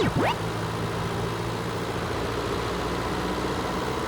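Tanker truck engine idling steadily, with a brief swooping whistle-like glide at the very start.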